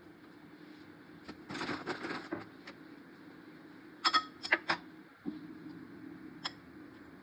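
Kitchenware clinking: a short scrape or rustle, then a quick run of four or five sharp ringing clinks of metal or glass, and one more clink a little later, over a low steady hum.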